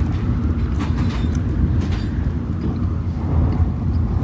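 Steady low rumble of a Shinkansen bullet train running at speed, heard inside the passenger car.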